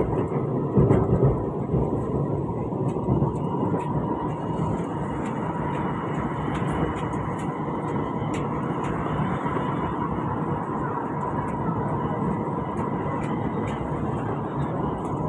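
Interior running noise of an SMRT Alstom Movia R151 train on the move between stations: a steady rumble of wheels on rail with a steady whine held through it.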